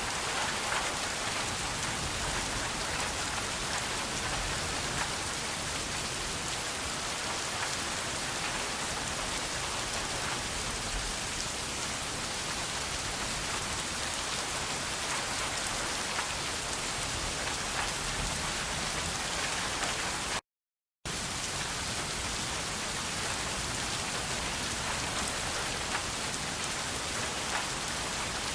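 Steady rain falling on a surface, an even hiss of many drops. The sound drops out completely for about half a second roughly two-thirds of the way through, then carries on unchanged.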